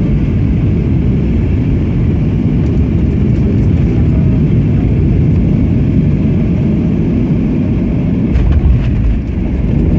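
Steady low rumble of engine and airflow noise inside the cabin of a Boeing 737-800, with a few faint clicks and a brief louder bump near the end.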